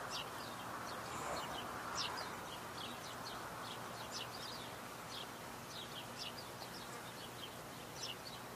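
Birds chirping: many short, high chirps in quick, irregular succession over a steady outdoor background haze.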